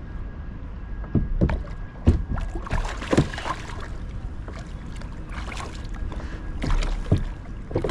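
Scattered short knocks, taps and rustles from handling a fish and a tangled line on a kayak, over a steady low rumble from water and wind.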